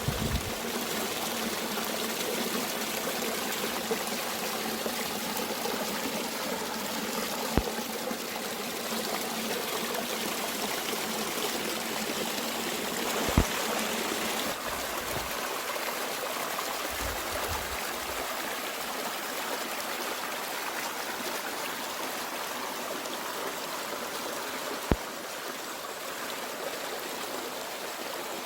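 A mountain stream flowing steadily, with three sharp knocks well apart.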